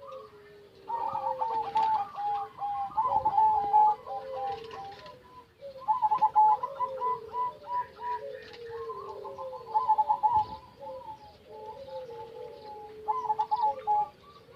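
Several zebra doves (perkutut) cooing at once, overlapping series of short, rhythmic pitched notes that go on and off through the whole stretch.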